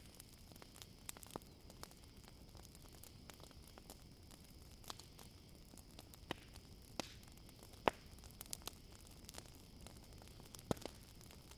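Wood campfire crackling, with sharp irregular pops over a low steady hiss. A steady high-pitched chorus of crickets runs underneath.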